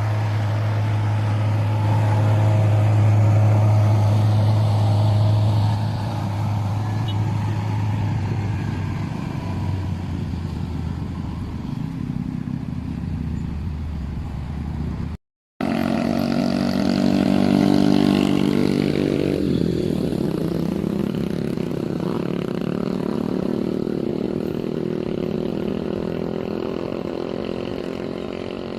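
Heavy diesel truck engine pulling up a steep grade in traffic, a steady low drone. After an abrupt cut about halfway, another engine runs, its pitch dropping a few seconds later.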